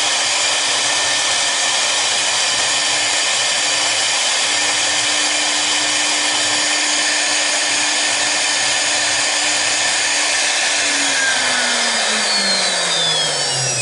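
The two spindles of a double-head CNC router are running at high speed, a steady whine over a loud hiss. In the last few seconds the pitch falls steadily as the spindles spin down at the end of the job.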